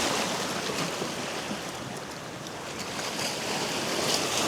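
Sea waves washing and rushing, a steady noise that eases a little midway and builds again, with wind on the microphone.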